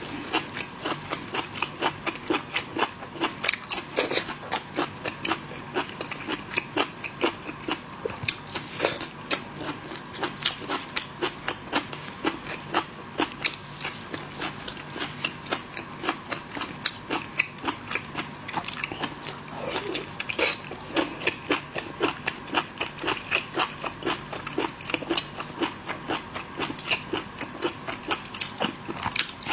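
Close-miked chewing and crunching of seafood: a steady run of wet clicks and crackles, several a second.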